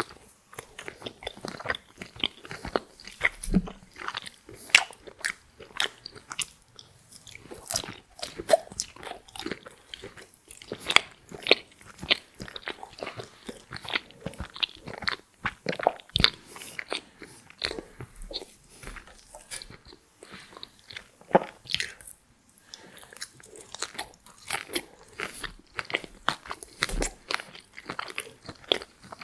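Close-miked biting and crunching of crisp french fries, with chewing, in quick irregular succession and a short pause about two-thirds of the way through.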